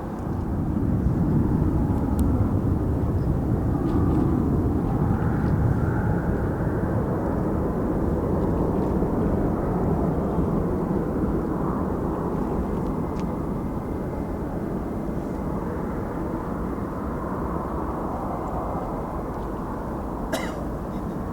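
Jet airliner passing on its landing approach: a broad engine rumble swells within the first second, holds for several seconds, then slowly fades. A single sharp click near the end.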